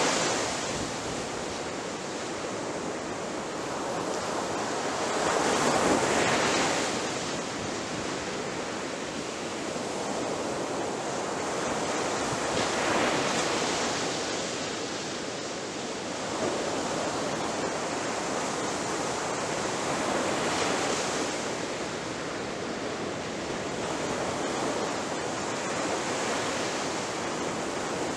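Ocean waves breaking on a beach: a continuous surf wash with louder crashes swelling and fading every several seconds.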